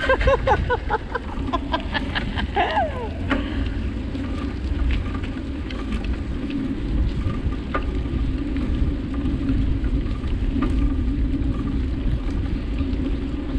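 Wind buffeting the microphone and tyre noise from a bike being ridden along a road: a steady low rumble. A voice is heard in the first three seconds, and there are a couple of small clicks later on.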